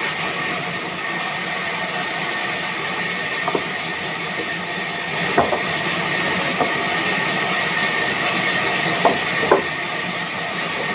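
Sawmill machinery running steadily: a continuous hissing noise with a faint steady whine, and a few sharp knocks, the loudest about nine and a half seconds in.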